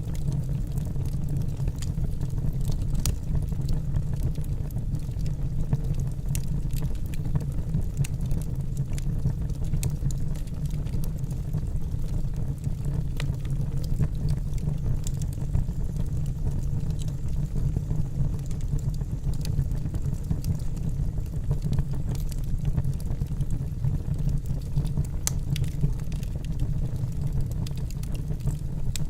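Wood fire burning in a fireplace: logs crackling with frequent sharp, irregular pops over a steady low rumble of the flames.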